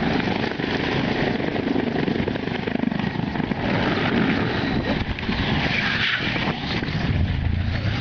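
Aircraft running steadily, most likely a helicopter's engine and rotor, as a loud, even drone.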